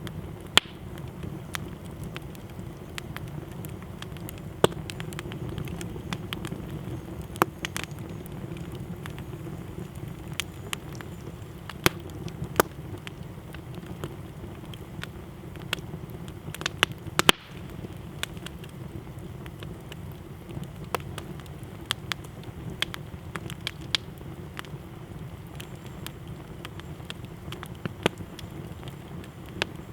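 Wood campfire crackling: irregular sharp pops and snaps of burning wood, a few much louder than the rest, over a steady low rumble.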